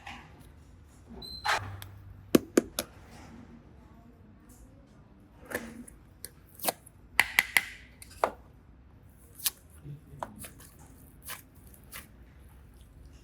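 Irregular sharp clicks and taps of small objects being handled, with short rustles between them. The clicks come in quick clusters about two and a half seconds in and again around seven seconds in.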